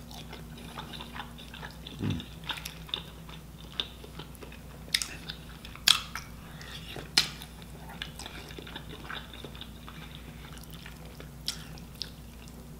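Close-up eating sounds: wet chewing and mouth smacks from someone eating saucy rotisserie chicken by hand, with a sharp smack every second or so and a few louder ones in the middle. A faint steady low hum lies underneath.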